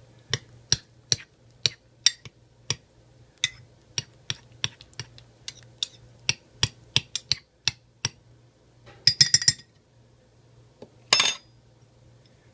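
A spoon clinking against the inside of a mug while stirring risotto, a sharp clink about two or three times a second, with a flurry of quicker clinks about nine seconds in and a louder, ringing clink near the end.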